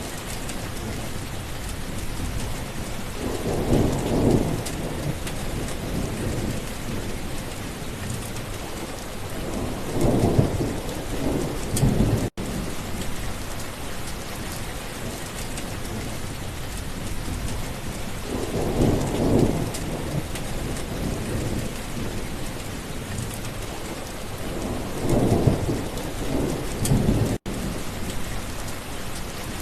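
Steady rain with thunder rolling in four low swells that build and fade over a second or two each. The sound cuts out for an instant twice.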